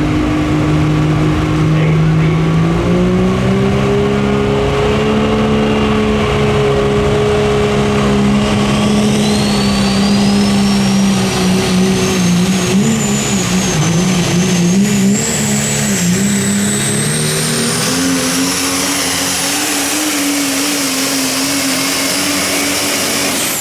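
Super stock diesel four-wheel-drive pulling truck running under full power: the engine note rises early, wavers midway, then climbs again. A high turbo whistle climbs steadily in pitch from about a third of the way in and holds near the top. The sound drops off abruptly at the very end.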